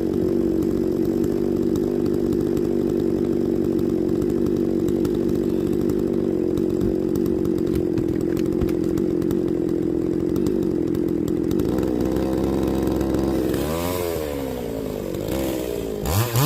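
Small engine running at a steady speed. Near the end its pitch drops and climbs again twice, as if it is throttled down and revved back up.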